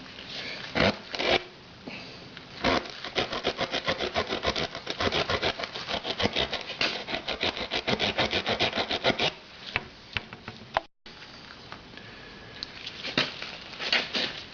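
Tyre plug kit's reamer rasping back and forth in the puncture hole of a tubeless tyre, enlarging the hole to take a plug. A few separate scrapes come first, then rapid even strokes several times a second for about seven seconds.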